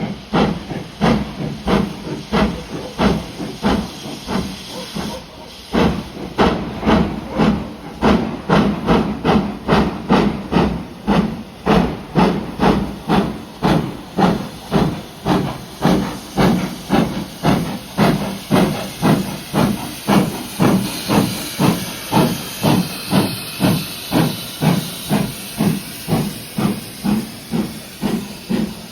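Steam locomotive working under steam: a steady rhythm of exhaust beats, a little over two a second, with a brief lull about five seconds in. A hiss of steam grows over the beats from about twenty seconds in.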